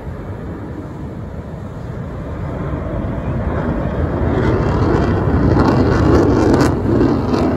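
Aircraft flying past at an air show: a rushing engine rumble that grows louder to a peak about six seconds in, then begins to fade.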